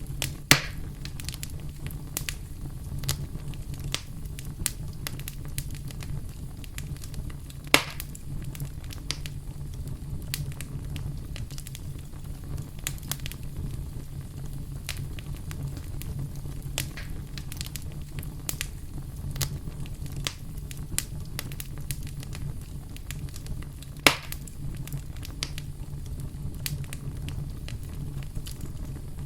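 Campfire crackling, with a steady low rumble under many quick sharp snaps. Three louder pops come about half a second in, near eight seconds and near twenty-four seconds.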